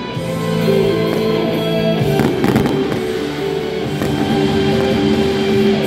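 A baseball team's cheer song plays while fireworks go off, with a cluster of sharp bangs and crackles about two seconds in.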